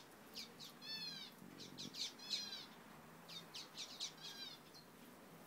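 Bird calls: several runs of short chirps that drop quickly in pitch, with a pause of about a second between runs.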